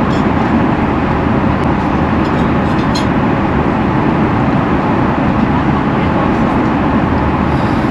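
Steady rushing cabin noise of an Airbus A350 airliner in flight, with a single light click about three seconds in.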